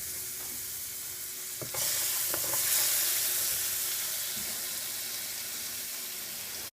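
Tomato sauce with butter and sugar sizzling in a pan while being stirred, with a spoon knocking against the pan twice. The sizzle grows louder about two seconds in and cuts off suddenly at the end.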